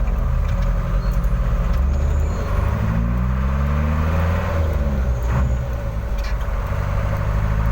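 Truck engine running while the truck is under way, its pitch climbing and then falling back between about three and five seconds in.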